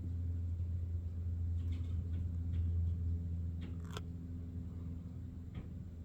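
A steady low machine-like hum, with a few faint short ticks or chirps over it, the sharpest about four seconds in.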